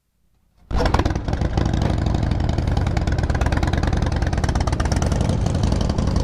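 Motorcycle engine running steadily with an even, rapid pulse, cutting in suddenly less than a second in.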